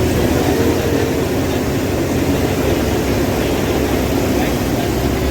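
A heavy engine running steadily, a low drone with a held hum, such as demolition machinery at work.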